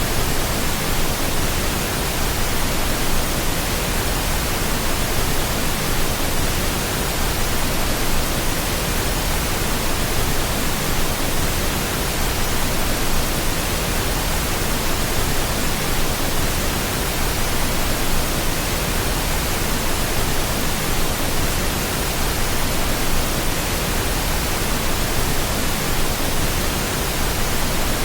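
Steady pink noise: an even, unchanging hiss spread across all pitches, with a full low end.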